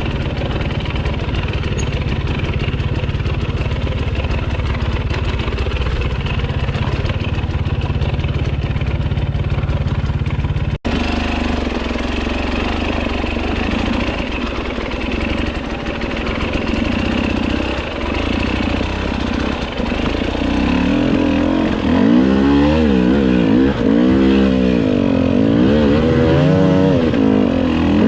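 Enduro dirt bike engine running steadily, then, after a brief break, revving up and down repeatedly as the throttle is worked through the last several seconds.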